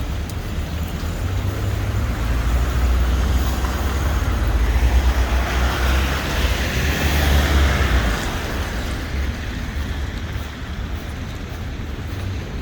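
City street traffic with a steady low rumble; a vehicle passes, swelling and fading about halfway through.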